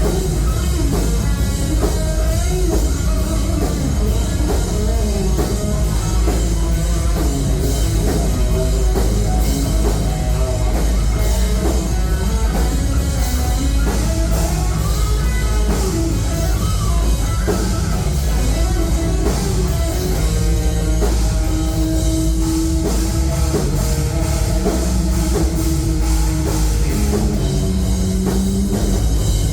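A rock band playing live and loud: drum kit, guitars and bass in a heavy rock song that runs on without a break.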